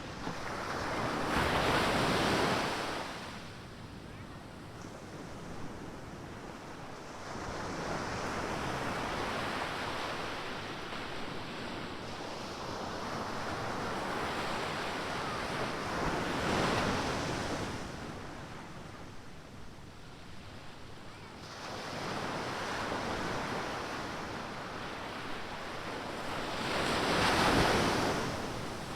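Ocean surf: waves breaking and washing up the beach in a hiss that swells and fades. The loudest breaks come a couple of seconds in, about midway, and near the end, with softer wash between them.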